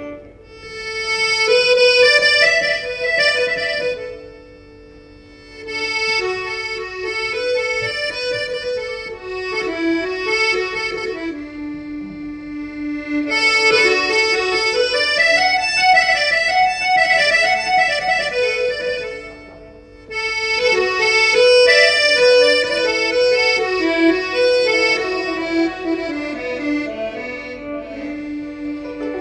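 Instrumental traditional folk music: a single held-note melody instrument plays the tune in phrases, with a short pause about four seconds in and a brief break about twenty seconds in.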